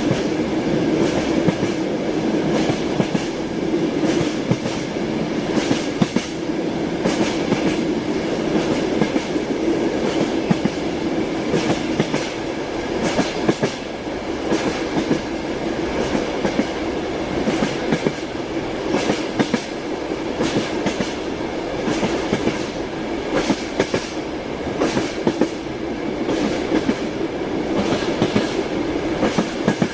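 Passenger train running at speed, heard from inside a carriage: a steady rumble with the clickety-clack of the wheels over the rail joints.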